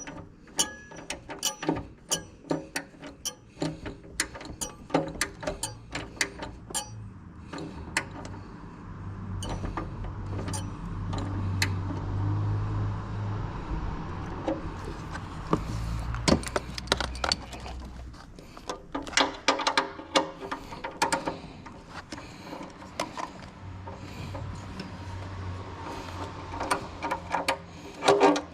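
Hand-tool work on the car: a socket wrench's ratchet clicking and metal tools and parts clinking in irregular runs, with a low rumble for several seconds in the middle.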